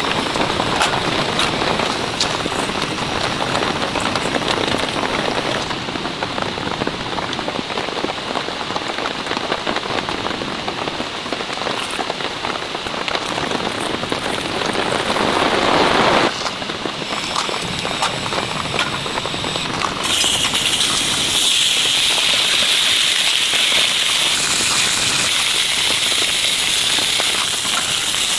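Heavy rain falling steadily. The sound changes abruptly a few times: it swells and cuts off suddenly a little past the middle, and in the last third it turns to a brighter hiss.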